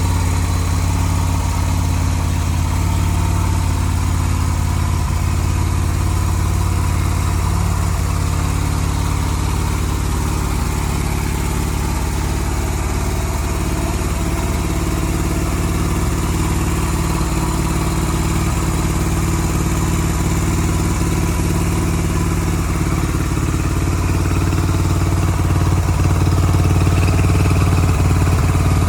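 Yamaha Renaissa motorcycle's air-cooled 250 cc V-twin engine idling steadily, getting slightly louder in the last few seconds.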